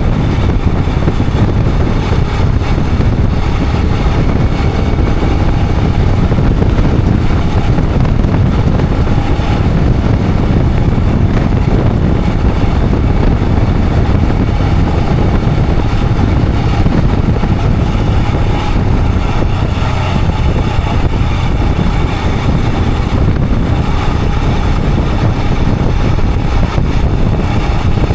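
Royal Enfield Himalayan 411's single-cylinder engine running steadily while the motorcycle is ridden, with a heavy low rumble that stays even throughout.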